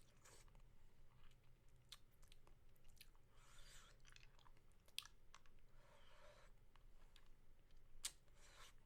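Faint close-up mouth sounds from eating a lollipop: wet sucking and smacking in short spells, broken by a handful of sharp mouth clicks.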